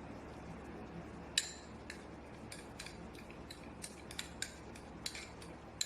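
A spoon clicking and scraping lightly against a bowl or jar as ginger garlic paste is scooped out and added to the chicken: a dozen or so short, irregular taps over a faint steady hum.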